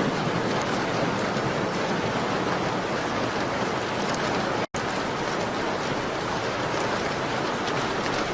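Steady rain on a window: a dense, even hiss with faint scattered ticks of drops. The sound cuts out for an instant about halfway through.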